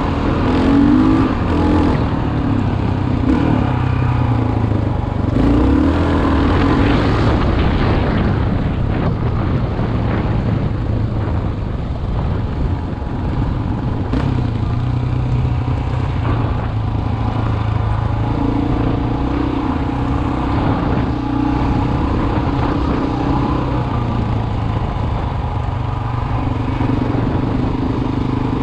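Single-cylinder four-stroke dual-sport motorcycle engine running, its pitch rising and falling as the throttle is worked, heard from a helmet-mounted camera. A few brief knocks and rattles over the engine note.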